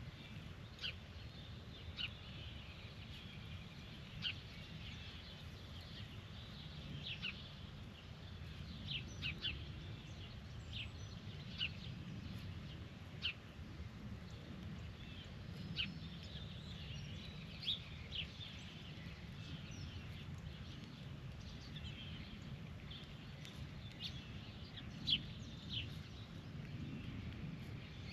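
Birds giving short, sharp chirps and chips, one or two a second at irregular intervals, over a steady low background rumble.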